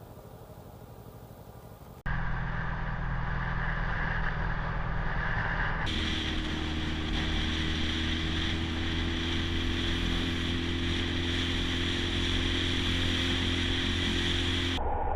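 Motorcycle engine running steadily while riding, with wind and road noise. It is quieter for the first two seconds, then jumps louder at a cut and changes again after a second cut a few seconds later.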